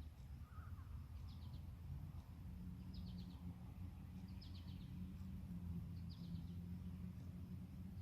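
A bird repeating a short high call of three or four quick notes about every second and a half, over a steady low rumble.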